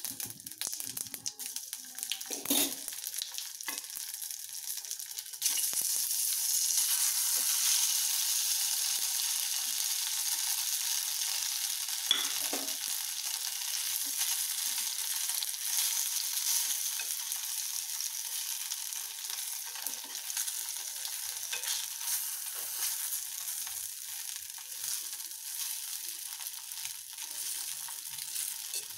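Rava idlis frying in a ghee tempering of mustard seeds and curry leaves in a pressure-cooker pan, sizzling steadily, with small clicks and scrapes as they are stirred and turned. The sizzle gets clearly louder about five seconds in.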